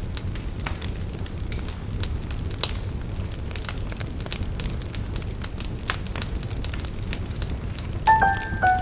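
Wood fire crackling: many irregular sharp pops and snaps over a steady low rumble. A few piano notes come in near the end.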